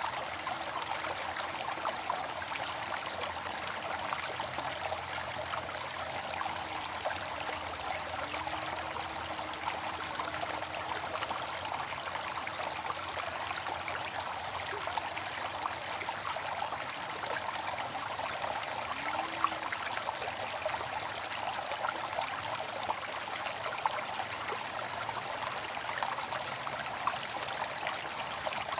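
Water fountain splashing and trickling steadily, with small drips and splashes scattered through it.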